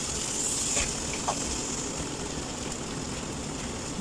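Chicken and pineapple-juice sauce simmering hard in a pan, a steady bubbling hiss with a couple of faint ticks in the first second and a half. The sauce is at a rolling boil and about to bubble over.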